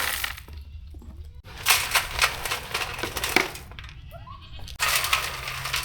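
Dry goat feed being poured and scooped into buckets, in rattling rushes of grain, with a short goat call in a pause a little under four seconds in.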